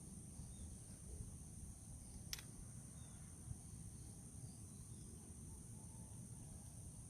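Steady, high-pitched insect chorus over a faint low rumble, with one sharp click a little over two seconds in.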